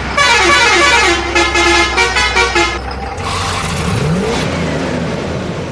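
A vehicle horn plays a short tune of quick stepping notes for about two and a half seconds. Then an engine revs up, rising in pitch about four seconds in.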